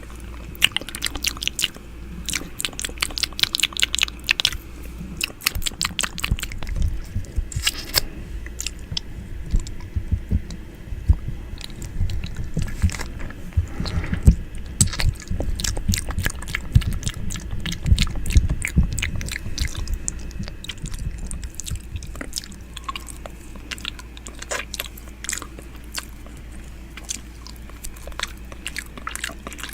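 ASMR ear-eating mouth sounds: close-up wet clicks, smacks and nibbling on the microphone, with bursts of low muffled rumble through the middle where the mouth presses against it.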